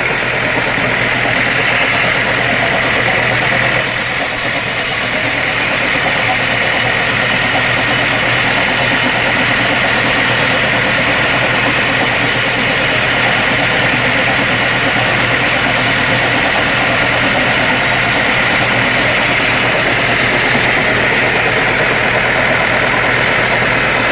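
Sawmill machinery running steadily, a continuous motor hum with a whining band. Two brief hisses come about four and twelve seconds in.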